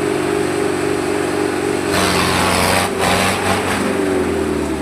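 Tractor engine running hard at high revs in a tractor-pulling contest, a steady loud drone under load, with a burst of rushing noise about two seconds in.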